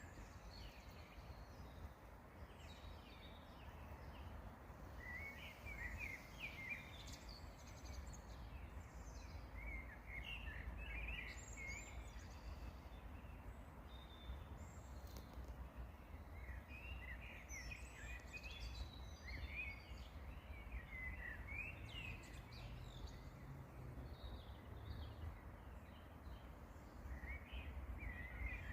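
Songbirds singing short chirping phrases that come and go every few seconds, over a faint, steady low rumble.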